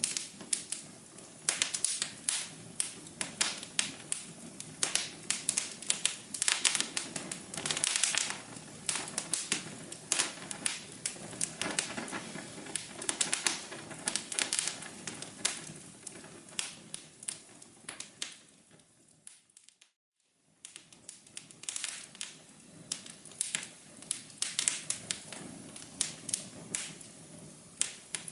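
Wood fire crackling, with a steady stream of irregular sharp pops and snaps over a soft low rush. About two-thirds of the way through it fades out to silence for a moment and then starts again.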